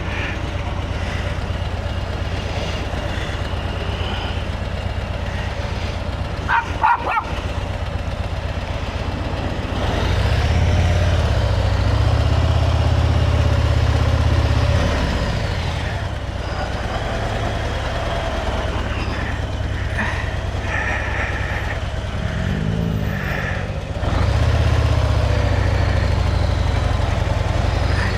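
Motorcycle engine running with a steady low rumble. It gets louder twice, about a third of the way in and again near the end, as the bike pulls away and picks up speed. A few brief clicks come partway through.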